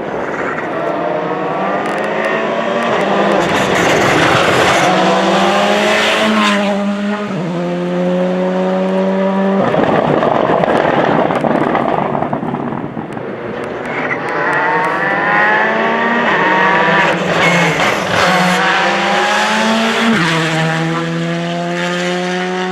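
Rally car engines accelerating hard through the gears. The pitch climbs and drops back at each upshift, in two runs, one in each half.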